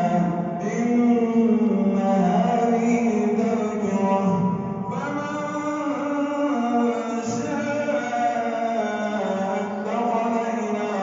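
A man's voice reciting the Quran aloud in the melodic, drawn-out style of tajweed, holding long sustained notes. The line breaks and moves to a new note about five seconds in.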